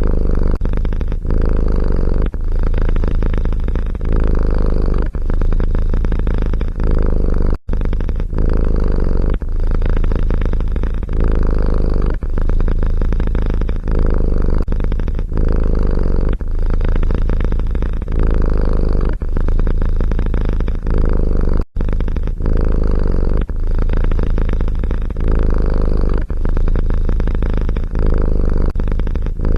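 Cat purring loudly right at the microphone: a deep, steady rumble that swells and eases about once a second, briefly cutting out twice.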